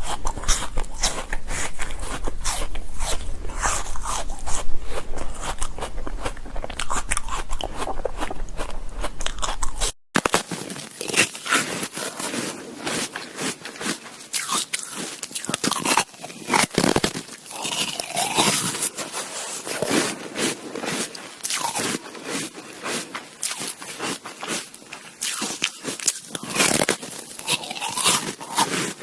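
Shaved ice being bitten and chewed close to the microphone: dense, continuous crunching. A low hum under the first part stops abruptly about ten seconds in, where the recording cuts to another take.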